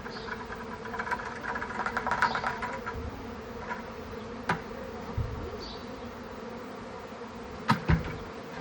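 Honeybee swarm buzzing steadily, a constant drone. About a second in comes a stretch of rapid clicking, and later a few sharp knocks, two close together near the end.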